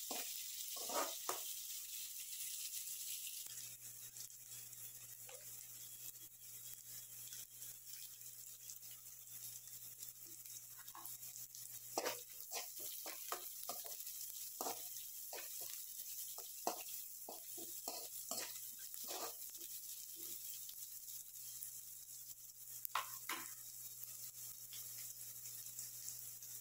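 Chopped onions, curry leaves and dried red chillies sizzling in oil in an aluminium kadai, stirred with a steel spoon that scrapes and taps against the pan. The sizzle is louder for the first few seconds, then softer, and the spoon's clicks come in a cluster through the middle and again near the end.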